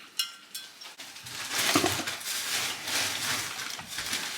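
Glass and kitchenware clinking while a drink is being made: a couple of sharp clinks at the start, then about a second in a longer stretch of clattering and handling noise.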